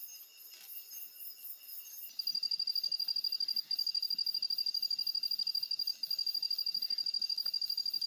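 Insects calling in a rapid, high-pitched pulsing chorus. A louder trill comes in about two seconds in and runs on with two brief breaks.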